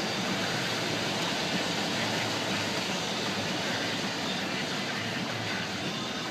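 Steady road and engine noise inside a moving car's cabin, an even rushing that holds level with no sudden sounds.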